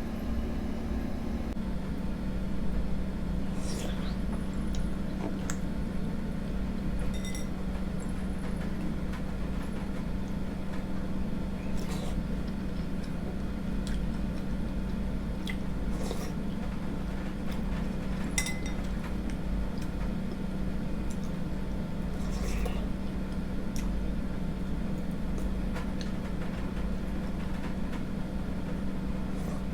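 Eating sounds: a spoon clinking against a bowl now and then, with soft chewing and slurping of rice porridge, over a steady low hum.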